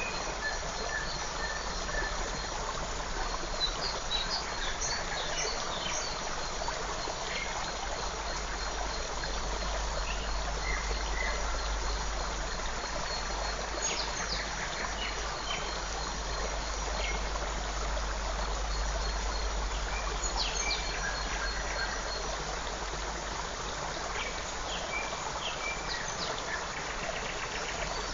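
A forest stream running in a steady rush of water, with a continuous high-pitched insect tone and short bird chirps scattered through it, over a low rumble.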